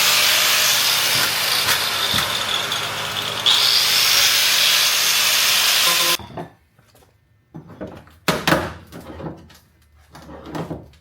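Angle grinder cutting through a car's sheet-metal body panel, picking up again about three and a half seconds in and cutting off suddenly about six seconds in. A few scattered knocks and clatters follow.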